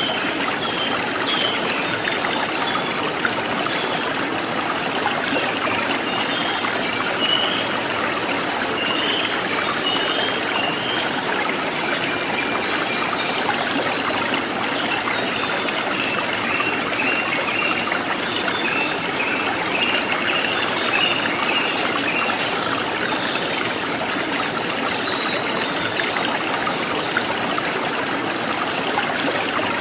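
Forest stream water trickling and splashing steadily, with wild birds chirping in short, high calls over it throughout.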